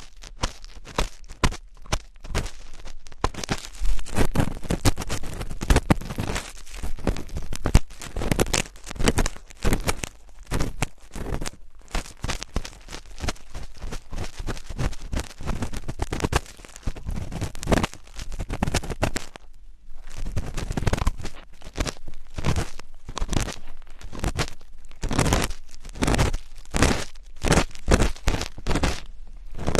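Close-miked ASMR scratching and rubbing: dense, irregular crackling strokes, with a short pause about two-thirds of the way through.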